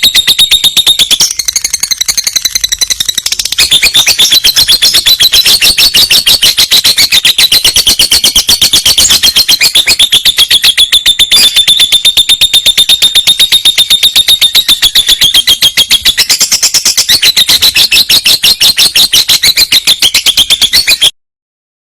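Lovebird singing a long rolling trill: a fast, unbroken chatter of high notes at about ten a second, loud throughout. It cuts off suddenly near the end.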